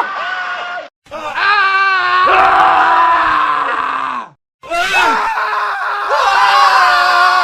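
Men screaming in a spliced montage of scream clips: three separate screams, cut apart by two brief dead-silent gaps about a second in and about four and a half seconds in. The middle scream wavers in pitch and sags down at its end.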